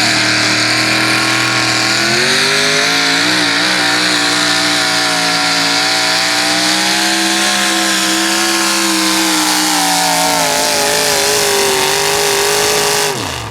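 A Sportsman-class 4x4 pulling truck's engine at full throttle, dragging the sled. The revs climb about two seconds in, hold high, sag a little as the load builds, then fall away sharply near the end.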